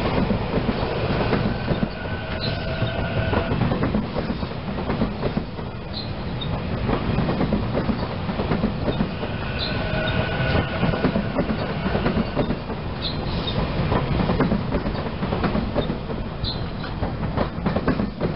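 SEPTA Silverliner V electric multiple-unit train rolling past as it departs, its wheels clacking over rail joints and switches. A brief high tone sounds twice, about a second in and again about ten seconds in. The noise starts to fall away at the very end as the last car clears.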